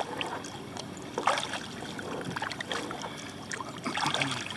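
Kayak paddle strokes dipping into shallow lake water, with a few splashes and water dripping off the blade.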